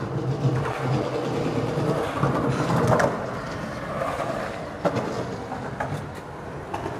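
Skateboard wheels rolling over concrete, a continuous rumble that swells and fades, with one sharp clack about five seconds in.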